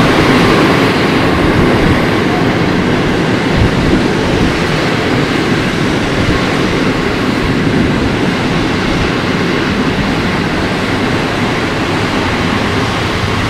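Passenger train running steadily on the rails, heard from aboard: a continuous rolling rumble that eases slightly in level over the seconds.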